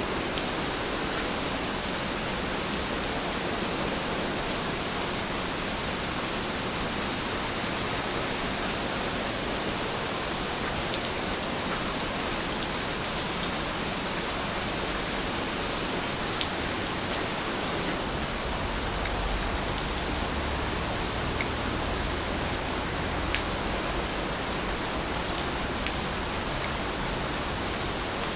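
Steady rain falling, an even hiss with a few sharper drop ticks standing out now and then.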